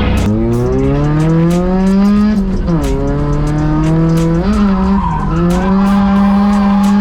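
A car engine revving hard through a drift. The revs climb, dip sharply twice, then hold high before falling away at the end, with tyres screeching under it.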